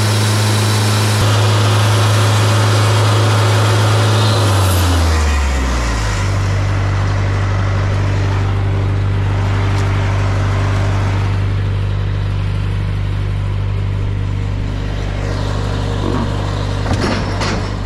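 Wood-Mizer LT50 sawmill engine running at high speed with a loud hiss over it. About five seconds in, its pitch falls and it settles into a steady lower run, and there are a few clicks near the end.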